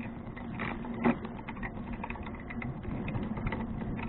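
Bicycle being ridden, with light irregular clicking and rattling and one louder click about a second in.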